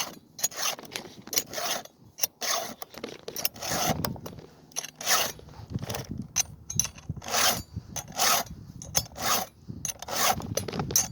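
Hand file rasping across a chainsaw chain's cutter teeth in repeated strokes, roughly one a second, sharpening the teeth and scraping the grime off them.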